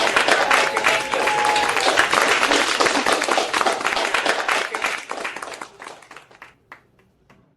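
Audience applauding. It dies away over the last couple of seconds into a few scattered single claps.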